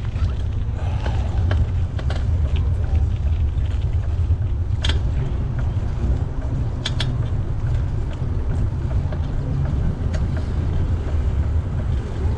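A bicycle being handled and readied for a ride, with a steady low rumble and a few sharp clicks and creaks: one about five seconds in, a close pair near seven seconds, and another near ten.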